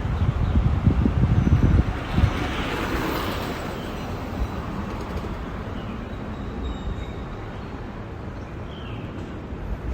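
Wind buffeting the microphone on a moving bicycle, a gusty low rumble strongest in the first two seconds, then a hissing swell about three seconds in before settling into a steady outdoor hiss. A few faint bird chirps come through near the end.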